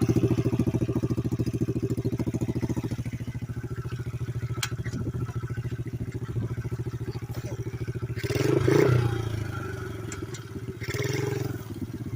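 Pit bike's small single-cylinder engine putting along at low revs, picking up with two short bursts of throttle about two-thirds of the way through and again near the end, with some clatter and scraping from the ground.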